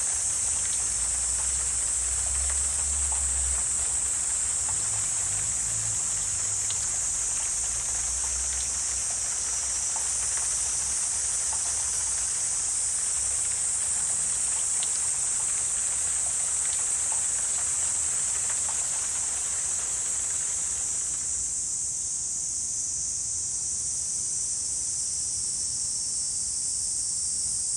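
A steady, dense, high-pitched chorus of insects, with scattered faint ticks. A low rumble sits under it for the first few seconds, and the background below it thins out about three-quarters of the way through.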